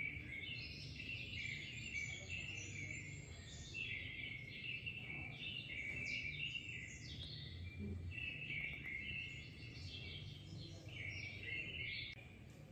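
Small birds chirping and twittering without a break, many short high calls overlapping, over a faint low hum.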